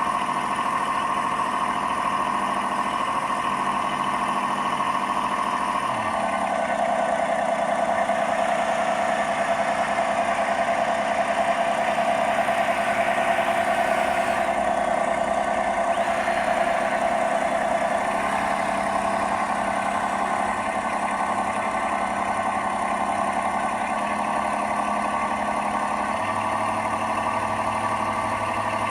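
Simulated diesel engine sound from a 1/12 scale Tyne class model lifeboat's onboard sound unit, running steadily but jumping abruptly to a different pitch several times. It is erratic because the speed controller driving it was failing.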